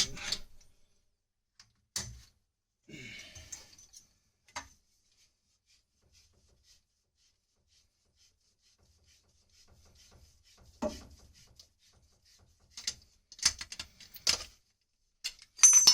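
Sparse knocks, clicks and a brief rub as pipe, fittings and tools are handled, with a quiet stretch in the middle and a cluster of knocks near the end.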